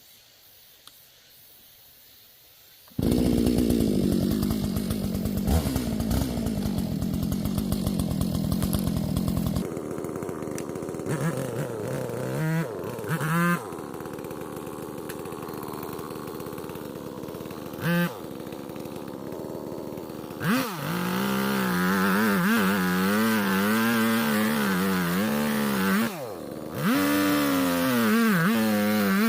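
Two-stroke chainsaw engine starting up suddenly a few seconds in and running hard. It then drops to a lower, steadier run with a few short throttle blips, and near the end is revved high with a wavering pitch, dipping once briefly before picking up again.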